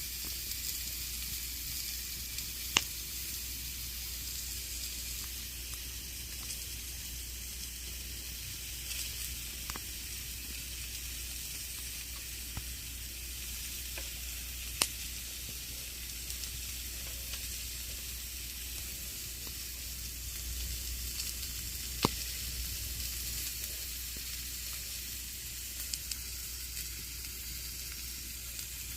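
Campfire crackling: a steady hiss of burning wood broken by occasional sharp pops, three louder ones about 3, 15 and 22 seconds in.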